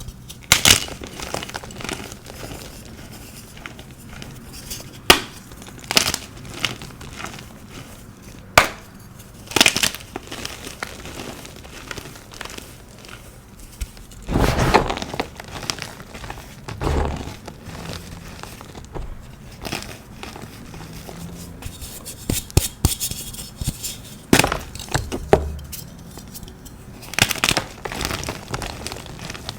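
Dyed, pasted gym chalk blocks crunching and cracking as they are crushed. There are scattered sharp snaps, with longer crumbling crunches about halfway through and again near the end.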